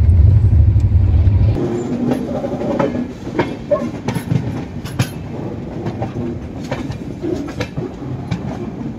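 Passenger train running: a heavy low rumble cuts off abruptly about a second and a half in, then the coach's running noise continues with irregular clacks of the wheels over rail joints.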